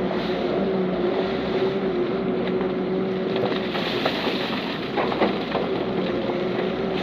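Heavy diesel earthmoving machinery running steadily under load, its engine holding a constant pitch, with a few sharp knocks about two and a half seconds and five seconds in.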